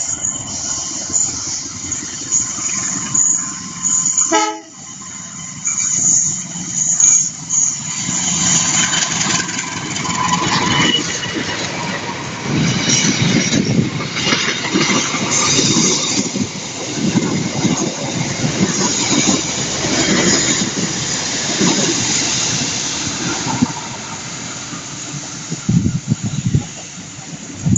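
Train running past on the rails, a loud uneven rumble and clatter of its wagons that builds up after the first several seconds and eases off near the end.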